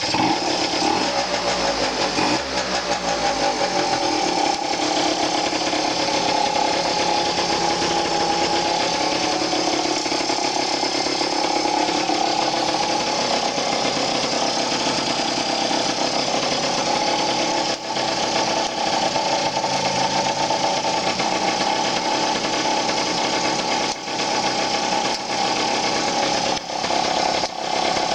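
Malaguti F10 scooter's two-stroke engine, bored out to 70 cc and fitted with a sport air filter, running with a rattly, fast-firing note. Its pitch rises and falls in the first few seconds, then holds steady.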